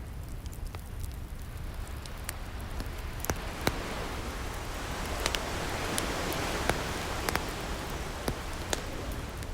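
Fireplace crackling with scattered sharp pops, over a steady low surf rumble. An ocean wave washes in, its hiss swelling to a peak about halfway through and then receding.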